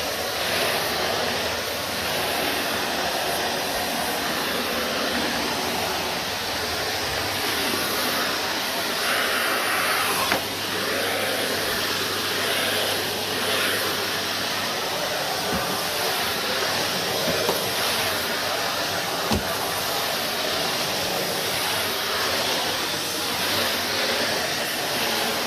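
Numatic Henry HVR160 vacuum cleaner running steadily while vacuuming, its motor and suction making a constant rushing noise. A few brief knocks sound at intervals, and the rush briefly turns brighter and hissier partway through.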